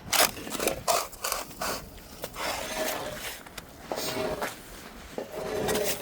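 Irregular crunching and scraping of packed snow, with short gritty crunches coming every fraction of a second.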